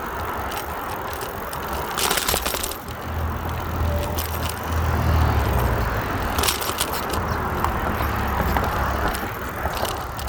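Wind rumbling on the microphone while riding a bicycle, over steady tyre and road noise. Short clattering rattles come about two seconds in, again after six seconds, and near the end.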